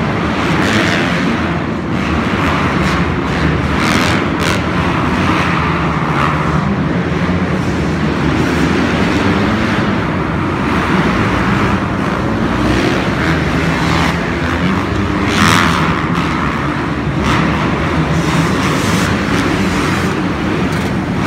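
Dirt bike engines running steadily and loudly.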